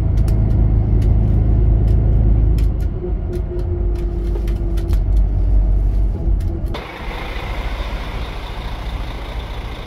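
Bus engine and road rumble heard from inside a moving intercity coach, with a steady hum and scattered light clicks. About seven seconds in, it cuts abruptly to an even hiss with far less rumble.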